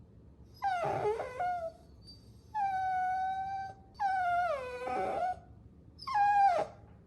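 Puppies whining: four high-pitched whines with short pauses between them, one held steady and the others sliding down in pitch.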